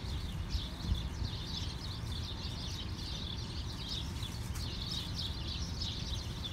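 Small birds chirping busily and without pause over a low steady rumble, with one soft knock about a second in.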